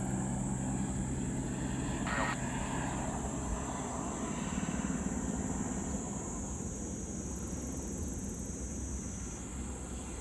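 Steady engine and rotor noise of a crop-spraying helicopter, with a faint high whine running through it. A short burst of radio noise cuts in briefly about two seconds in.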